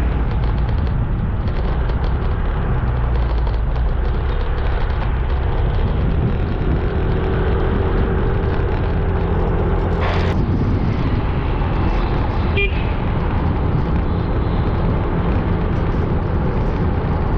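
Motor scooter running steadily while being ridden, with a heavy low rumble of wind and road noise on the microphone. A short horn toot sounds a little past the middle.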